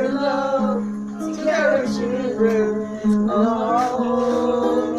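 Acoustic guitar being played while a person sings along.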